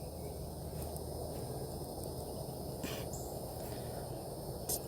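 Steady outdoor background noise with two faint, brief clicks, one about three seconds in and one near the end.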